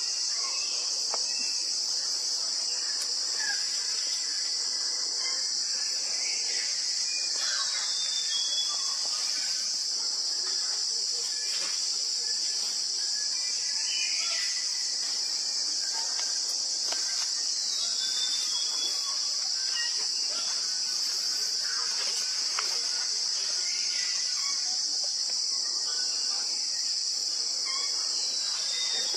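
Steady high-pitched chorus of insects, with faint short bird chirps here and there.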